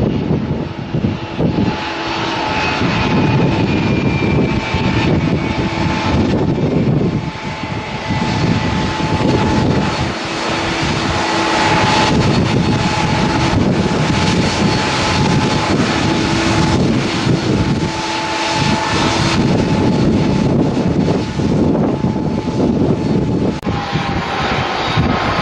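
Passenger jet's engines running loudly, a dense roar with steady whining tones over it and a whine gliding slowly down in pitch near the end.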